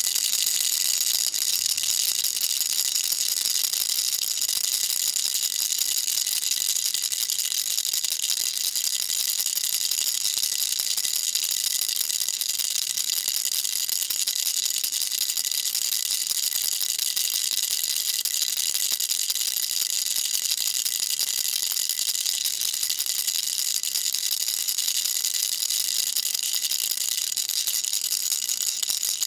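Baby rattle shaken continuously: a dense, fast, unbroken rattle that stays high in pitch, with a faint steady ringing over it.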